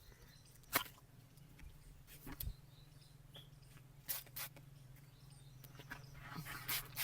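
Faint, scattered clicks and taps, then a short scratchy stroke near the end, over a low steady hum: typical of handling a straight razor during a wet shave.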